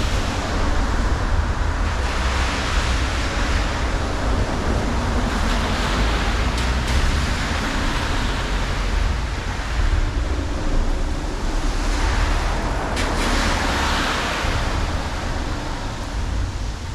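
Highway traffic passing on wet pavement: a tyre-spray hiss that swells and fades every few seconds as vehicles go by, over a steady low rumble, with wind buffeting the microphone.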